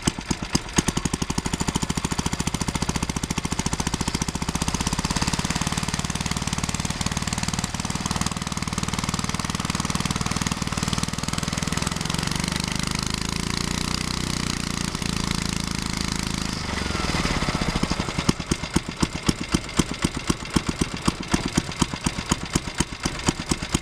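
Small petrol engine of a 5-inch gauge petrol-electric locomotive running its generator with an even chugging beat; about five seconds in it speeds up into a smoother, higher note that rises and falls, then drops back to the chug about seventeen seconds in.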